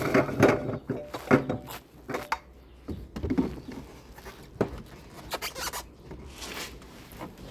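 Irregular rubbing and scraping, with a few sharp knocks and clicks, loudest in the first couple of seconds.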